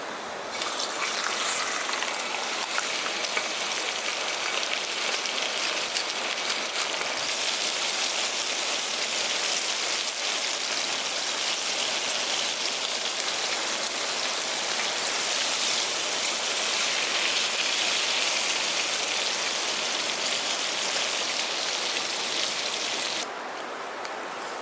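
Beef sizzling and crackling as it cooks, a dense steady hiss that cuts in just after the start and cuts off suddenly near the end.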